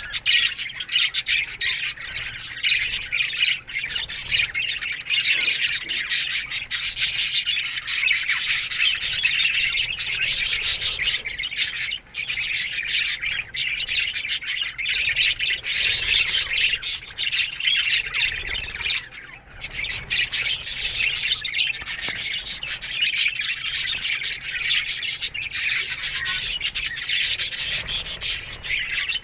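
A colony of budgerigars in an aviary chirping and chattering all at once, a dense continuous twittering with squawks mixed in.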